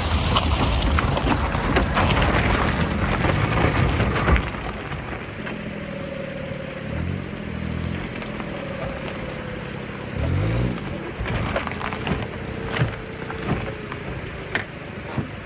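Kei truck on the move: loud, even road noise, which drops abruptly about four seconds in to quieter engine running. The engine pitch then swells and falls twice.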